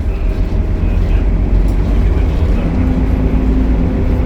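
Optare Solo single-deck bus running, a steady low engine drone, with a steady hum joining about two and a half seconds in.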